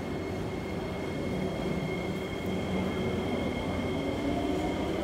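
Singapore MRT train: a steady low rumble with two steady high-pitched whining tones over it.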